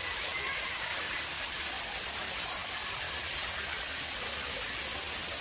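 Water flowing and splashing steadily into an artificial pond, an even rushing hiss with no breaks.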